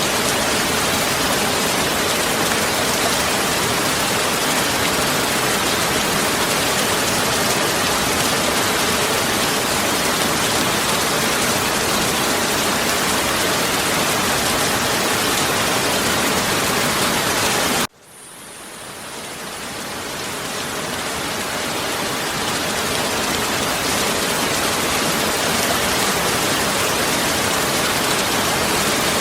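Heavy rain falling in a steady, even hiss. About eighteen seconds in it cuts out abruptly, then fades back up to full strength over several seconds, as at the join of a looped recording.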